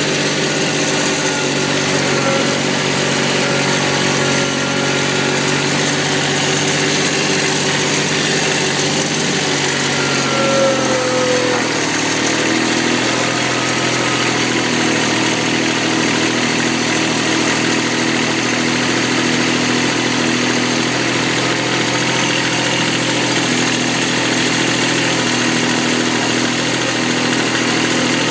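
Kubota tractor's diesel engine running steadily in the cold, its note shifting about eleven seconds in, with a brief gliding whine just before.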